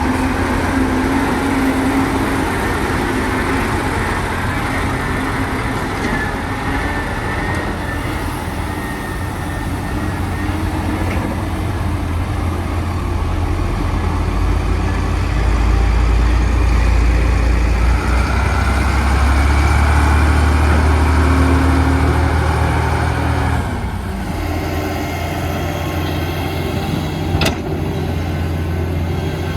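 Heavy diesel construction machinery running steadily. The engine note grows louder and deeper about halfway through as the machine works under load. About 24 seconds in the sound changes abruptly, and a single sharp click follows a few seconds later.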